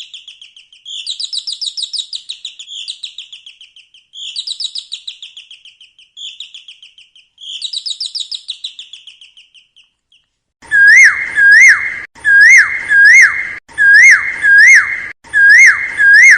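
Recorded songbird song: fast, high trilled phrases repeat every second or two. About ten seconds in, a louder bird call takes over, made of sharp rising-and-falling whistled notes that repeat as an evenly looped clip.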